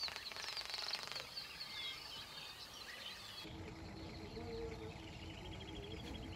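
Faint wild birdsong: short chirps and whistles. About halfway through, the background changes to a low steady hum, and a rapid bird trill follows near the end.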